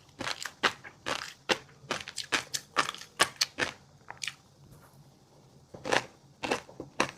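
Close-miked eating of fish roe and crunchy seafood: rapid crisp crunches and pops while chewing, with a pause of about a second and a half after the middle before the chewing resumes.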